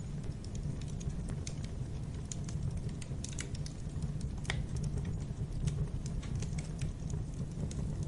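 Wood fire crackling in a fireplace: irregular sharp crackles and pops over a steady low rumble of the flames, with one louder pop about halfway through.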